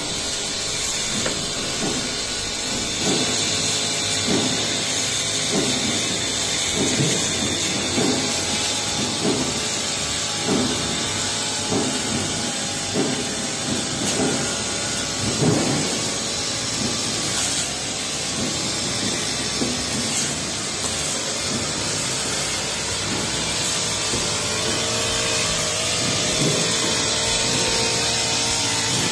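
Honda four-stroke brush cutter with a steel blade running at high revs. Its note swells and dips about once a second as the blade is swung through tall grass.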